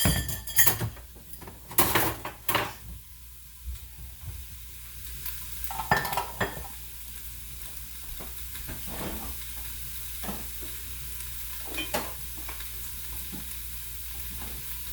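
Food sizzling in hot oil in an electric pressure cooker's stainless steel pot on its sear setting: a steady hiss with small crackles. Several knocks and clatters of kitchenware come in the first three seconds and again about six seconds in.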